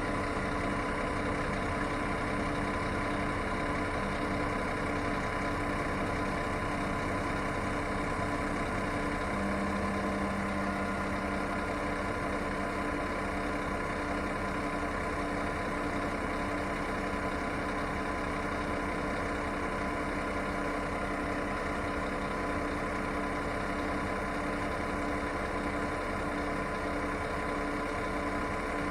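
Diesel engine of a Scania long-distance coach idling steadily.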